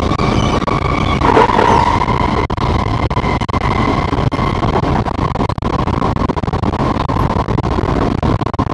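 Singapore MRT train running at speed, heard from inside the carriage: a steady rumble of wheels on rail with a steady whine, swelling briefly about a second in.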